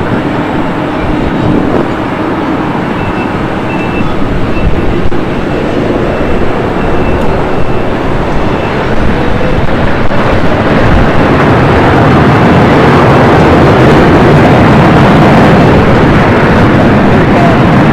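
Loud, steady rumbling noise of a large vehicle, building up about ten seconds in and then holding at full strength.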